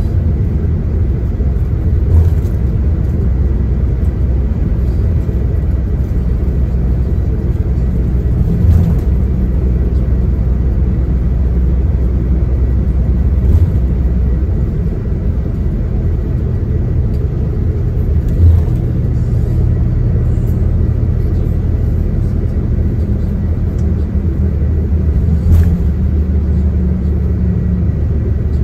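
Coach running on the road, heard from inside the passenger cabin: a steady low engine and road rumble, with five short thumps from bumps in the road.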